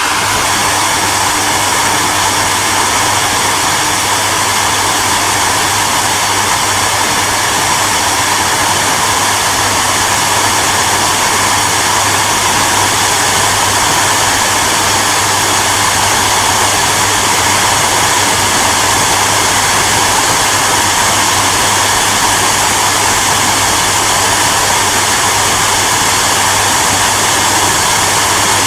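Hair dryer running steadily: a continuous airy rush with a steady low hum beneath it.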